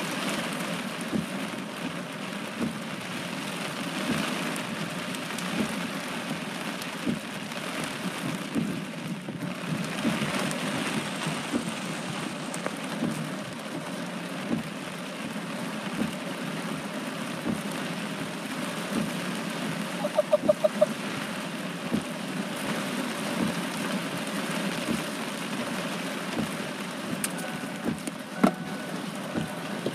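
Rain falling steadily on a car during a thunderstorm, individual drops ticking on the body over an even hiss, with a quick run of sharper clicks about two-thirds of the way through.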